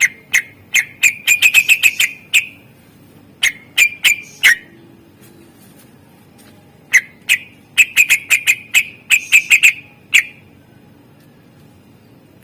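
Cucak ijo (green leafbird) singing: loud, sharp whistled notes fired off in quick runs, a long run, a short one, then another long run that stops about ten seconds in.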